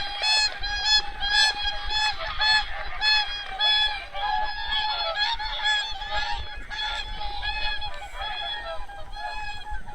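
A flock of migrating geese calling: many short, overlapping honks at once, several a second, in a continuous chorus.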